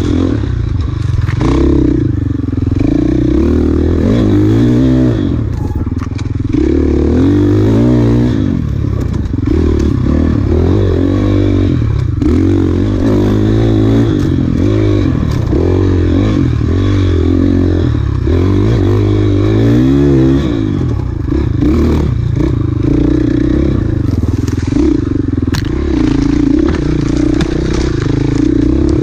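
Enduro dirt bike engine revving up and down as the throttle is worked through a rough off-road trail, rising and falling in pitch every second or two, with clatter and knocks from the bike and its suspension over rocks and ruts.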